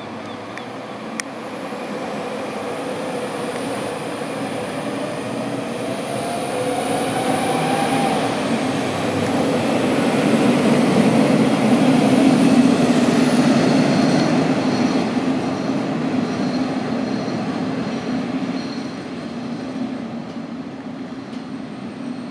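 Red DB Class 648 (LINT 41) diesel multiple unit pulling out and accelerating past, its diesel engines rising in pitch and the running noise swelling to its loudest about halfway through, then easing off. Faint high-pitched wheel squeal comes in during the second half.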